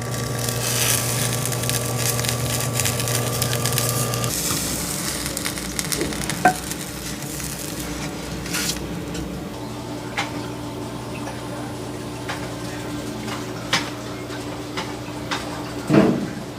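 Food sizzling as it cooks, with scattered clinks and taps of utensils against the pan or grill.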